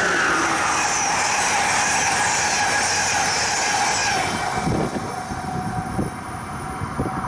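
Passing train, a steady rush of wheels on rail with faint high squealing tones for about four seconds. It then eases into a rougher rumble broken by a few sharp clunks.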